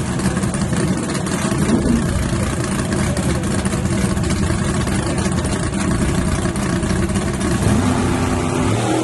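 Drag-race engine idling loudly with a rough, choppy note, then beginning to rev near the end.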